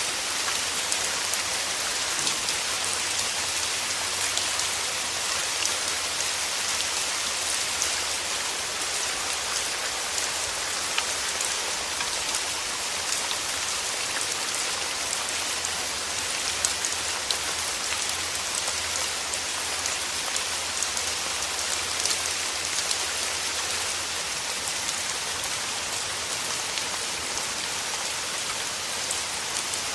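Steady rain falling on a surface: a dense, even hiss of drops with many small, sharp drop clicks.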